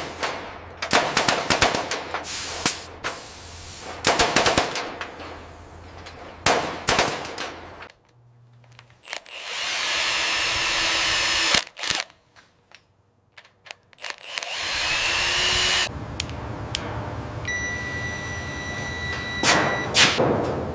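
Renovation tool sounds: clusters of sharp knocks and rapid strikes, then after a short silence steady power-tool runs, broken by a second pause, with a steady high whine near the end.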